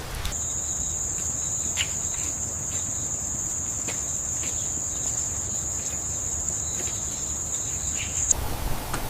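A steady high-pitched trill or whine on one unchanging pitch, with a few faint clicks. It cuts off suddenly near the end.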